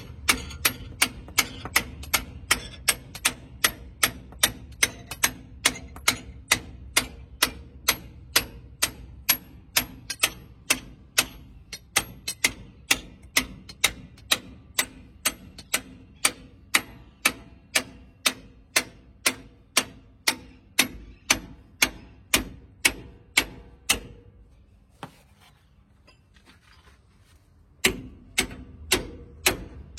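Hammer blows on steel, about two a second, driving a new centre bolt into a truck's leaf spring. The blows stop for a few seconds near the end, then start again.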